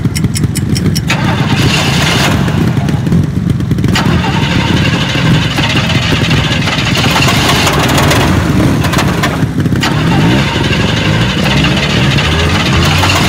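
Trial motorcycle engines running on the course, with short throttle blips that rise in pitch about eight to ten seconds in.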